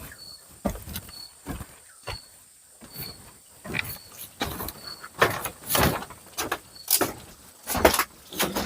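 Irregular knocks, thumps and scraping rustles of objects being handled and set down, with a faint high insect chirp recurring about once a second.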